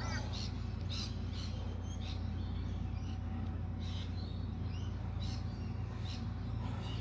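Birds chirping: many short, high calls scattered through, over a steady low background rumble.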